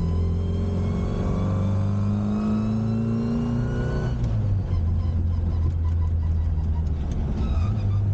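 Classic Mini's A-series engine pulling through a gear, its pitch rising steadily for about four seconds, then dropping suddenly at a gear change and running on at a lower, steadier pitch.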